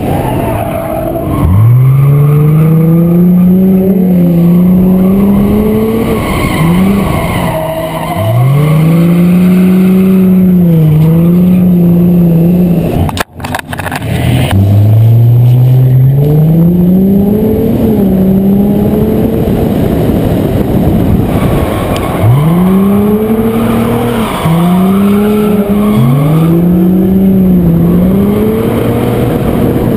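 A car engine, heard from a camera mounted on the car's body, revving up and falling back again and again as the car is driven hard through tight corners. The sound cuts out for an instant about thirteen seconds in.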